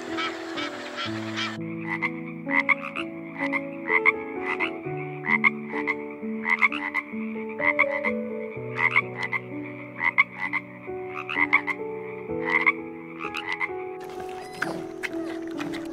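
A frog croaking in a quick run of short calls, about two to three a second, starting about a second and a half in and stopping shortly before the end, over soft piano music.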